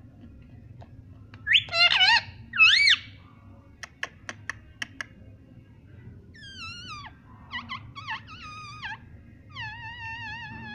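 Pet parrot whistling and calling: two loud warbling whistles about two seconds in, a quick run of sharp clicks around four seconds in, then a series of falling and wavering whistled calls.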